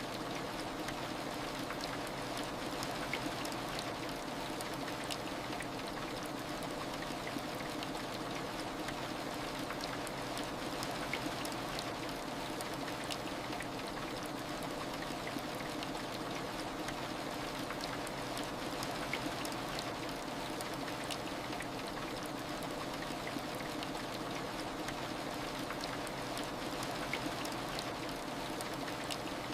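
Steady heavy rain, with many scattered sharp drop ticks over an even wash of falling water.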